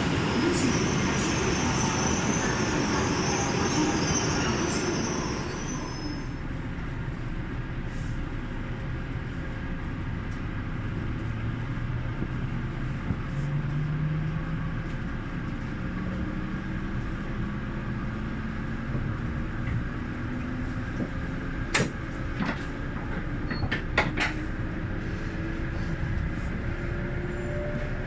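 Electric train at a station platform: loud running noise with a high hiss that dies down about six seconds in, then the traction motors' whine rising steadily in pitch as a train pulls away, with a few sharp clicks near the end.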